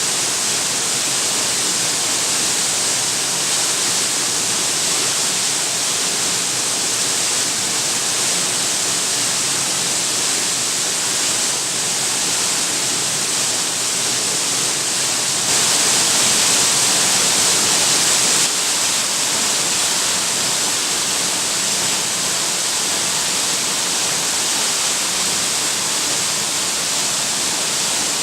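Waterfall rushing: a steady, hissing wash of falling and splashing water. It gets louder for about three seconds just past the middle, then settles back.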